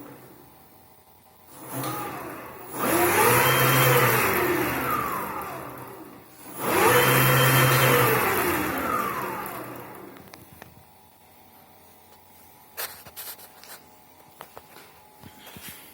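48-volt, 750-watt electric bike motor spun up twice on the throttle, its whine rising in pitch and then falling away as it slows, with a short lead-in before the first run-up. A few small clicks follow near the end.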